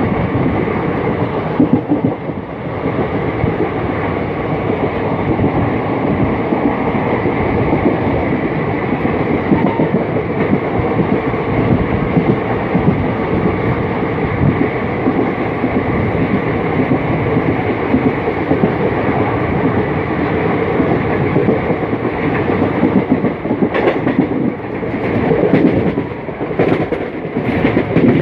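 Indian Railways passenger train running at speed, heard from on board: a steady rumble and rattle of wheels on the rails, with a few louder clatters in the last few seconds.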